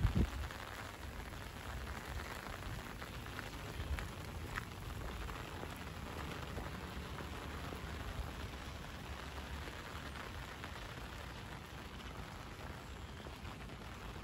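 Steady light rain falling on wet paving and grass, with a few sharper drip ticks about four seconds in.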